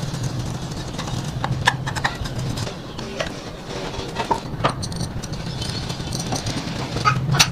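A small engine running steadily, with scattered short metallic clicks and knocks over it and a louder cluster of clicks near the end.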